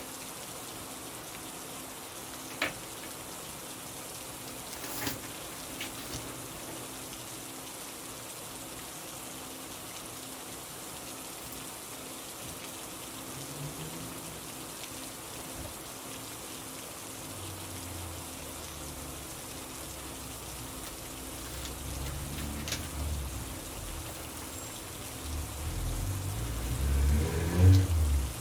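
Steady rain falling, with a few faint clicks. In the second half a low rumble rises, loudest shortly before the end.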